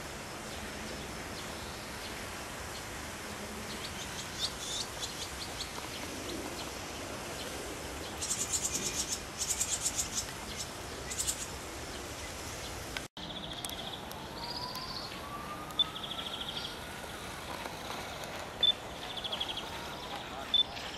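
Small birds chirping and trilling in short bursts over a steady outdoor background hiss. After a sudden break about thirteen seconds in, higher chirps repeat in short runs, with a few sharp clicks.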